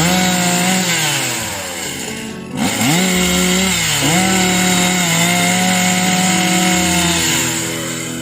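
Two-stroke chainsaw revved up to full throttle twice, holding high revs with a brief dip and recovery about four seconds in as it cuts, then easing off near the end.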